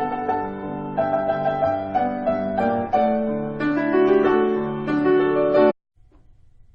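Solo piano music, with notes and chords changing about once a second. It cuts off suddenly near the end, leaving only a faint low hum.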